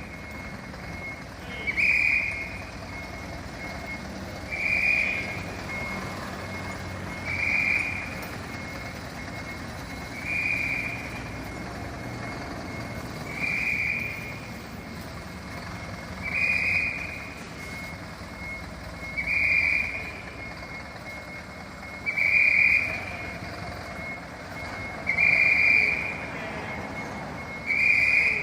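Electronic warning beeper on a fire vehicle, sounding one high-pitched beep about every three seconds, about ten in all, over a low steady rumble.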